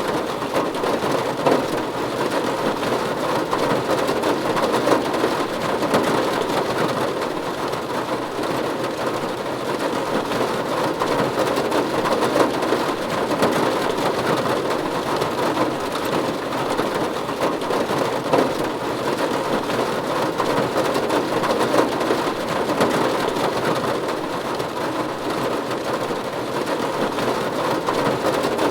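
Steady rain falling on a roof, heard as an even wash of many fine drop hits with no change in strength.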